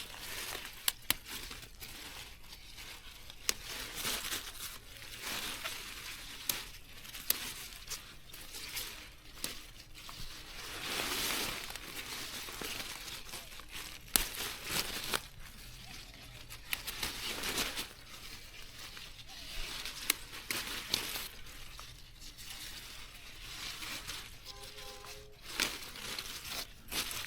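Grass and plants being pulled and torn by hand: irregular rustling and tearing with scattered sharp snaps.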